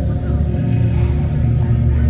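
Steady low rumble of automatic car wash machinery, with music under it.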